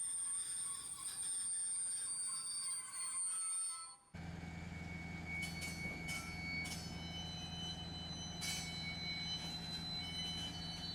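Freight train sounds in two shots. First a rushing noise of rail traffic, which cuts off suddenly about four seconds in. Then a steady low locomotive hum with thin, steady high-pitched tones above it.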